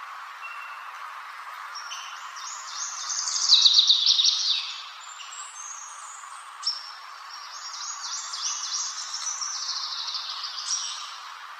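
A songbird singing two long phrases of rapid, varied high-pitched notes and trills, the first about two and a half seconds in and louder, the second running through the later part, over a steady background hiss.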